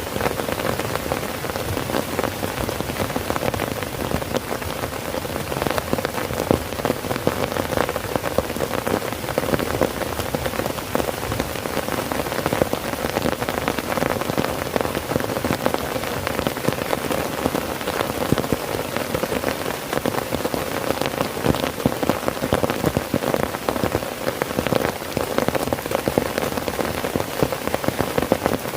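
Heavy rain drumming steadily on a tent's fabric, a dense patter of drops with a strong mid-pitched hum from the stretched canvas.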